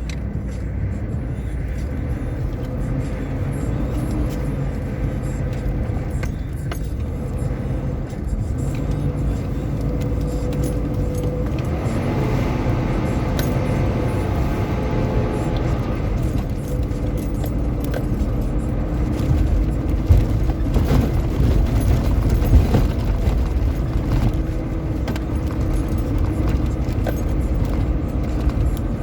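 Four-wheel-drive vehicle driving off-road on desert sand, its engine running with a heavy low rumble and a pitch that rises and falls with the throttle. A few knocks and jolts come about two-thirds of the way through.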